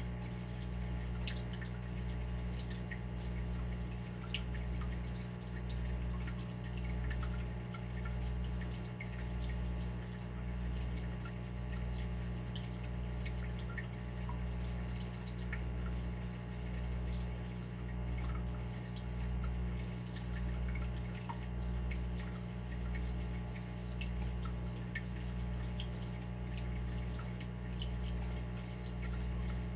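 Water dripping: small scattered drips over a steady low hum that swells and fades about every second and a quarter.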